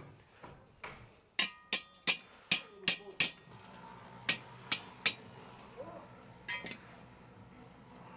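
Metal cookware and utensils knocking and clinking, about ten sharp strikes with brief ringing, bunched together for a few seconds and then a few softer ones; typical of handling a peka's metal pan and lid to check the food.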